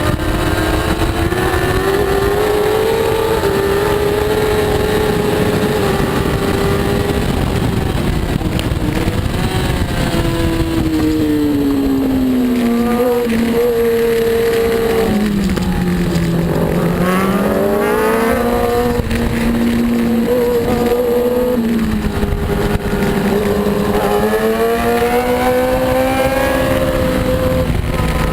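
Superbike engine at racing revs, its pitch falling away under braking and climbing again through quick upshifts as it drives out of corners, over a heavy low rush of wind noise.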